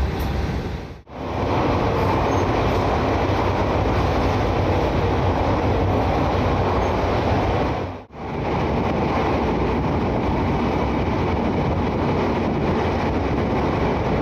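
Passenger coaches of a diesel-locomotive-hauled train running through a long rail tunnel, heard from inside the cars: a loud, dense, steady rumble and rush of wheels on rail. It cuts out briefly and resumes twice, about a second in and about eight seconds in.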